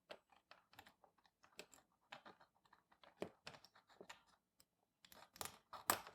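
Faint, irregular small clicks and taps of hand tools working on a circuit board while a wire is being unsoldered, a little busier near the end.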